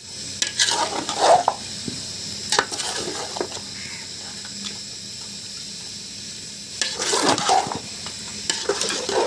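Food sizzling steadily in a hot pan, with a spatula scraping and stirring it in bursts every few seconds.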